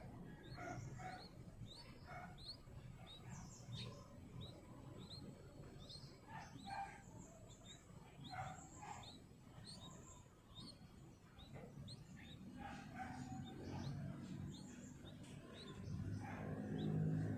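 Small birds chirping, with many short high chirps repeating throughout over a low background hum. A louder low rumble rises near the end.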